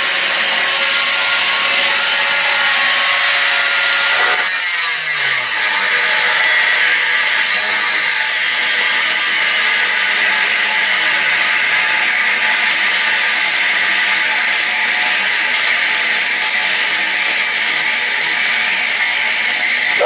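Power tool working steel, a loud steady hiss that holds throughout. A faint motor hum with steady tones gives way about four and a half seconds in, and the hiss gets brighter from there.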